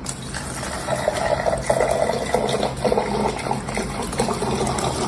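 Water running steadily, with a low steady hum beneath it.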